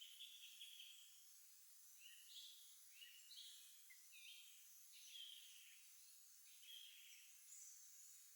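Songbirds singing faintly over a steady hiss: a string of short, stepped whistled phrases, repeated several times, with one higher note near the end.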